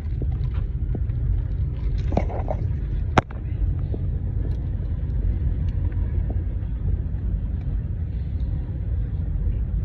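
Steady low vehicle rumble, with a single sharp click about three seconds in.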